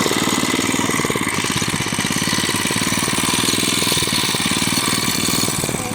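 Small single-cylinder mini bike engine running steadily at idle just after being pull-started, a fast even putter.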